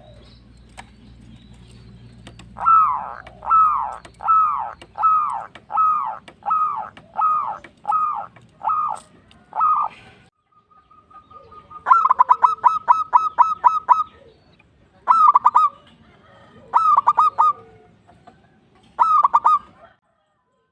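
Male zebra dove (perkutut) singing its cooing song: a run of about a dozen short falling coos, one every half-second or so, then several bursts of rapid rolling notes in the second half.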